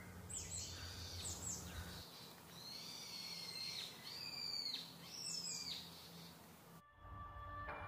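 A wild bird calling repeatedly: a string of high, sharp, falling calls in short groups. Near the end it cuts off abruptly and music starts.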